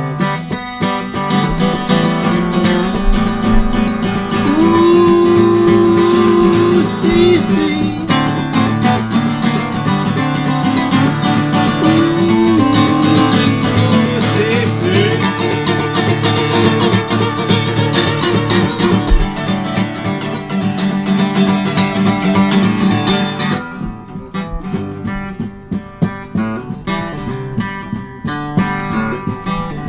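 Acoustic guitar music, strummed and picked, with a held, sliding melody line over it in the first half. About three-quarters of the way through, the fuller sound drops back to quieter guitar.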